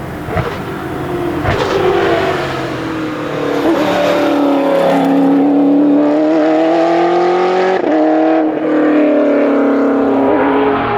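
Giocattolo Group B rally car's V8 engine pulling hard under acceleration. Its pitch climbs and then drops back several times as it changes gear.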